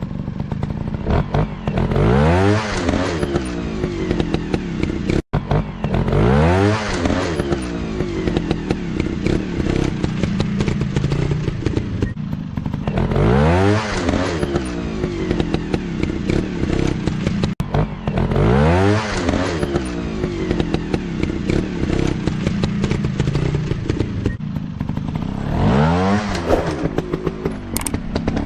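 Dirt bike engine running and revving hard about five times, each rev a quick rise in pitch before it drops back to a lower running note.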